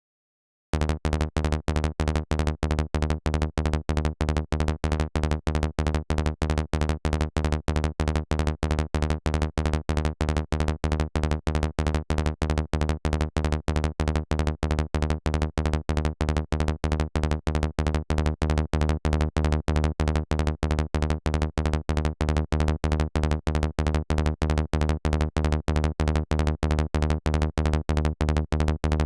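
Synthesized kick drum and bass loop playing from the production software, a fast, evenly repeating electronic pattern of short, heavy low-end pulses. It starts about a second in.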